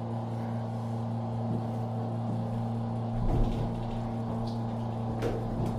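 Otis elevator car travelling in its shaft: a steady low machine hum, with a deeper rumble joining about three seconds in and a few light clicks near the end.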